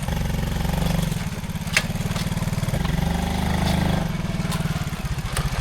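A small vehicle engine idling with a fast, even firing pulse, its note shifting a little about three and four seconds in. A sharp click sounds a little under two seconds in.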